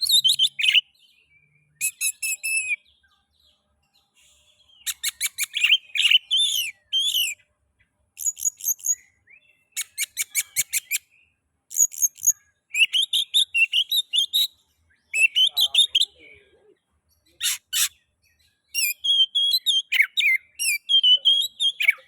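Oriental magpie-robin (kacer) singing: a string of phrases of quick, sharp whistled notes and rapid high trills, each a second or two long, broken by short pauses.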